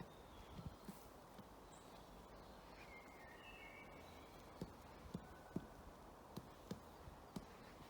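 Faint, irregular single knocks of a woodpecker pecking at wood, spaced a half-second or more apart and more frequent in the second half. A few short whistled notes of other songbirds come about three seconds in.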